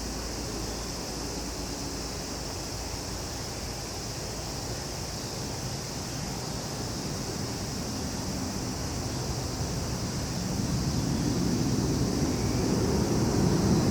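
Steady high-pitched chorus of summer insects, with a low engine rumble that grows steadily louder through the second half, as of an approaching vehicle or aircraft.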